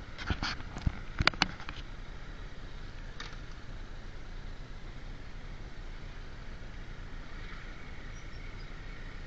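Motorcycle on the move: a steady low engine and wind rumble, with a quick cluster of sharp clicks or knocks in the first second and a half and one more click about three seconds in.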